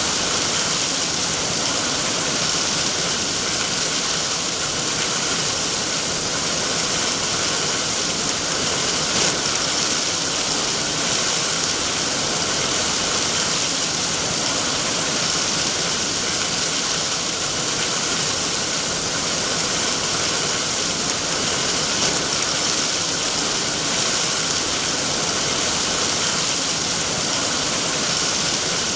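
Steady heavy rain, a continuous even hiss with no breaks or separate drops standing out.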